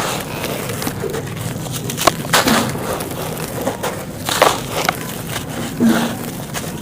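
Brown sandy clay being crushed and crumbled, a continuous gritty crackle with several sharper crunches along the way.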